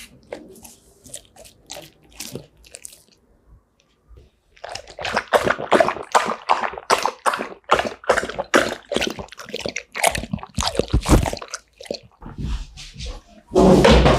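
Golden retriever eating noisily: wet, crunchy chewing and mouth smacking at about three or four strokes a second, starting after a few quieter seconds of faint clicks, with a louder burst near the end.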